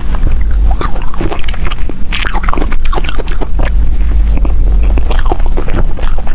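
Close-miked eating of soft desserts: biting and chewing, with many quick wet clicks and smacks over a steady low rumble.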